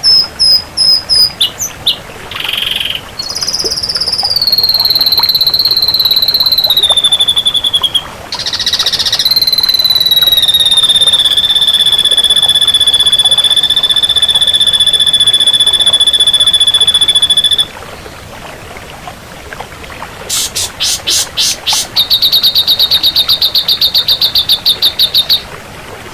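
Ashy drongo singing: a few short whistled notes and a falling glide, then one long steady whistle held for about eight seconds. After a short lull, fast rattling trills of rapidly repeated notes follow near the end.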